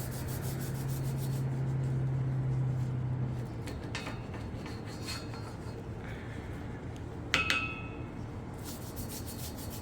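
Hand rubbing and scrubbing at greasy, sticky grime on patio furniture. A low steady hum runs through the first three seconds, and a single ringing clink comes about seven seconds in.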